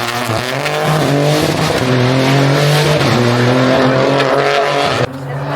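Rally car engine accelerating hard up through the gears: the pitch climbs, drops back at each of two upshifts, and climbs again. The sound cuts off abruptly about five seconds in.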